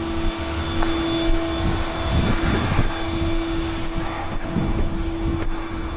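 A vehicle engine running steadily, with a constant whine held at one pitch over a low rumble.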